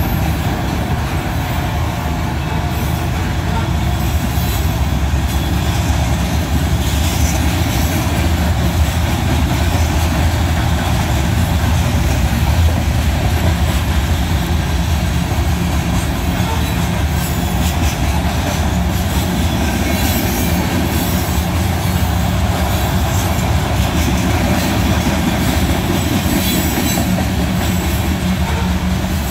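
Two-bay covered hopper cars of a freight train rolling past at a steady speed: a continuous low rumble of steel wheels on the rails, with rhythmic clacking as the wheels pass over the track.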